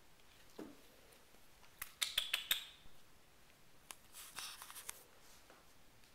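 Kittens at play making two short bursts of quick clicks and scratches, about two seconds in and again about four seconds in.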